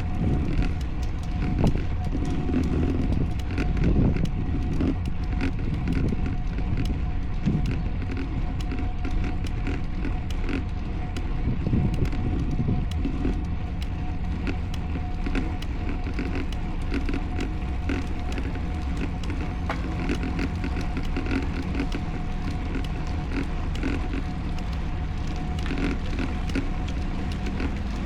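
Continuous wind and road noise picked up by a camera riding along on a road bike during a race, a dense low rumble with a faint steady whine and scattered small clicks.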